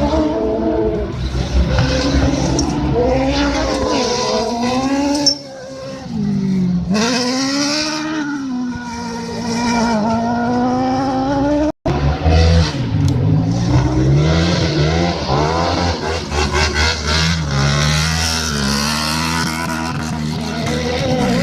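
Several autocross race car engines revving hard, their pitch climbing and dropping again and again through gear changes and corners, with more than one car heard at once. The sound drops out for an instant about halfway through.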